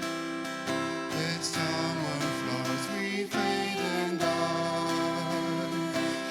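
Church worship music: acoustic guitar and band playing a slow passage between sung lines of a hymn, with a wavering melody line in the middle.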